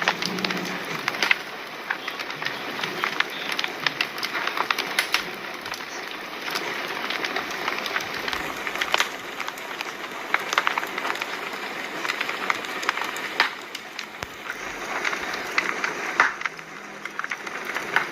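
Fire crackling: a steady hiss of burning with frequent sharp pops and snaps scattered irregularly through it.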